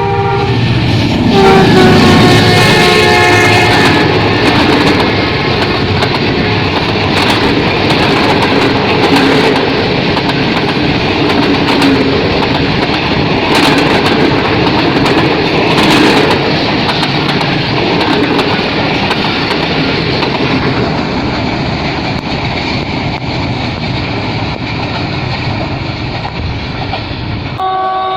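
A train passing at speed: its horn sounds in the first few seconds, then the steady rush of the passing cars with sharp clacks of wheels over rail joints. The sound cuts off suddenly near the end.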